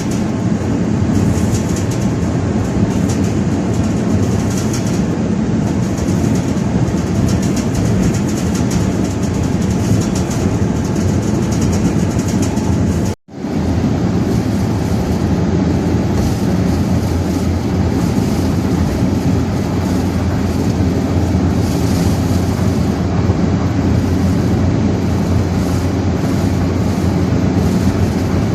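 Strong wind blowing on the microphone during travel: a loud, steady rumble that cuts out to silence for an instant about thirteen seconds in.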